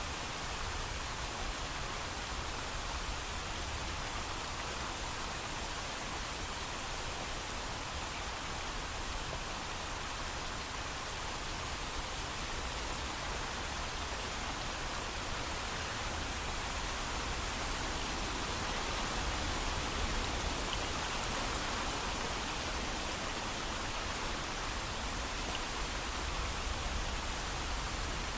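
Steady heavy rain with no thunder, an even hiss that swells slightly about two-thirds of the way through.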